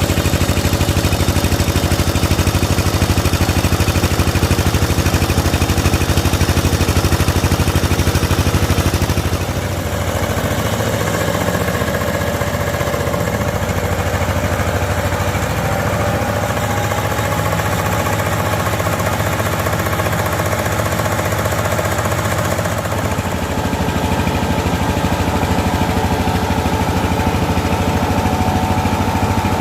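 Diesel engine of a mobile rice milling machine running steadily, driving the mill. About ten seconds in the sound changes, with the deep drone dropping and a higher steady whine coming in, and it shifts again a little past two-thirds of the way through.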